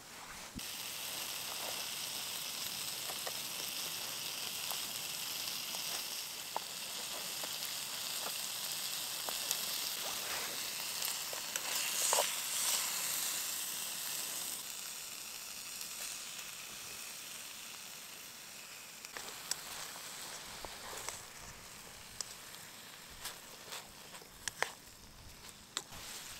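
Food sizzling in a small pan on a camp stove: the sizzle starts suddenly as ingredients go into the hot pan, swells for a moment about halfway through, then dies down, with scattered light clicks of a utensil against the pan.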